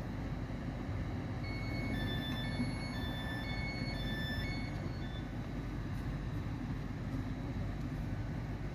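GWR Class 800 bi-mode train standing at the platform, running on its underfloor diesel engines with a steady low rumble. From about a second and a half in, a run of short door warning beeps alternating between two pitches sounds for about three seconds.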